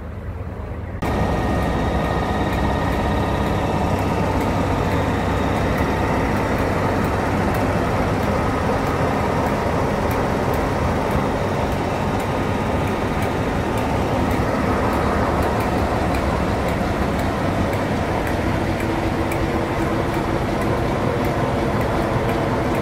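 Steady running noise of a moving train, starting suddenly about a second in, with faint ticks at an even pace.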